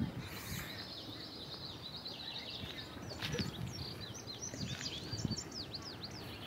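Wild birds singing: a run of high chirps and quick falling whistled notes, busiest in the second half, over a faint low outdoor rumble.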